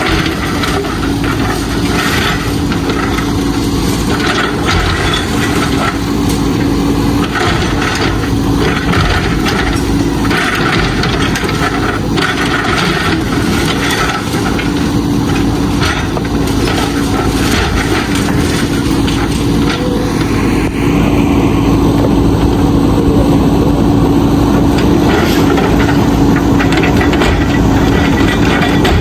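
Backhoe loader's diesel engine running steadily under work, with repeated knocks and clatter of bricks and rubble. About twenty seconds in the clatter stops and the engine grows a little louder and steadier.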